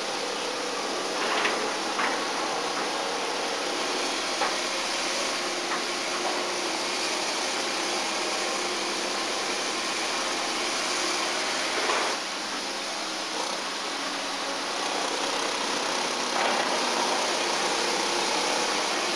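Engine of heavy demolition machinery running steadily, with a few short knocks from debris or the machine's work scattered through.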